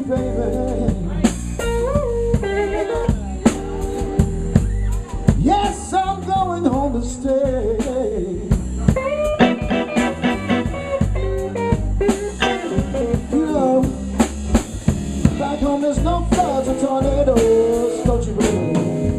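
Live electric blues band playing a slow blues: electric guitar lead with string bends and vibrato over bass guitar and drum kit.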